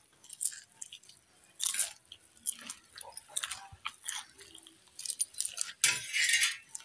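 Close-up chewing and biting sounds of a person eating a soft rolled rice pancake (rice pitha) by hand, in irregular short bursts, with a louder, longer burst of mouth noise about six seconds in.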